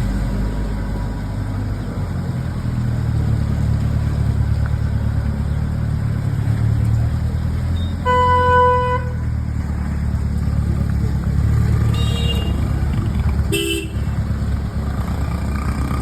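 Steady low rumble of a car engine and street traffic, with a vehicle horn sounding one clear blast of about a second about halfway through, then a fainter horn and a short toot a few seconds later.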